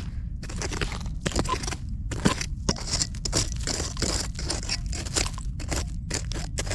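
Digging by hand in dump soil: dirt and debris crunching and scraping in quick, irregular strokes as it is cleared from around a buried bottle.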